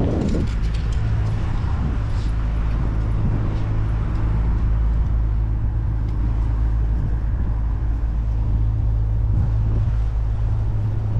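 Motor vehicle engine running close by, a steady low hum in city traffic.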